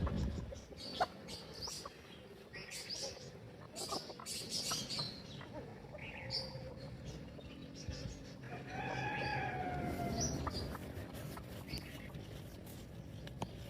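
A rooster crowing once, a long drawn-out call beginning about two-thirds of the way through, among chicken clucks and frequent short high chirps.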